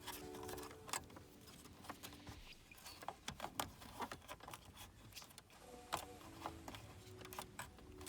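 Faint, irregular clicks and rustles of hands working on car wiring, with a faint held tone pattern underneath.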